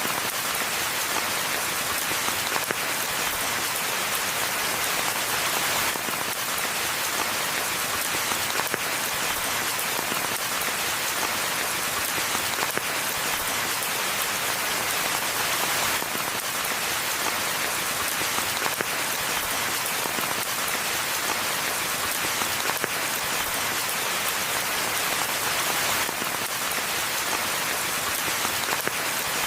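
Steady rain falling on forest foliage and ground, a dense even hiss with fine patter of individual drops.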